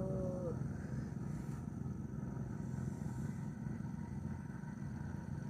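Steady low rumble, with no clear rhythm or change, under the tail of a spoken word in the first half second.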